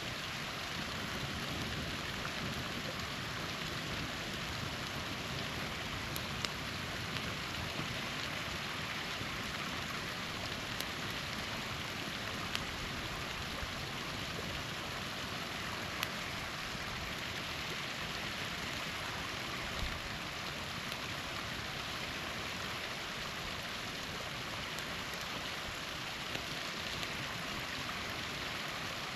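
Small waterfall splashing steadily, with the sharp pop of a campfire crackling now and then.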